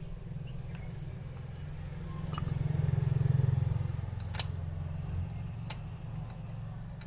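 Scooter engine running, revved up once near the middle and then settling back to idle.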